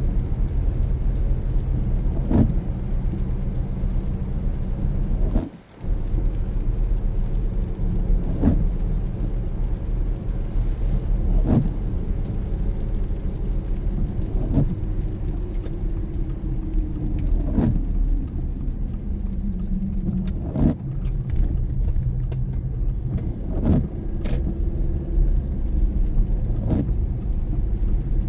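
A car driving in the rain, with a steady engine and road drone. A sharp stroke repeats about every three seconds, which fits the windshield wipers sweeping.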